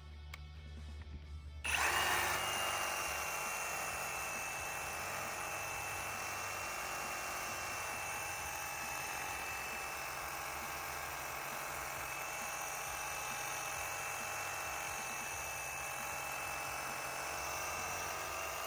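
Ryobi 18V ONE+ HP brushless reciprocating saw with a wood-pruning blade cutting through tree limbs. It starts suddenly about two seconds in and runs steadily at full speed, with a high whine over the cutting noise, until it stops at the end.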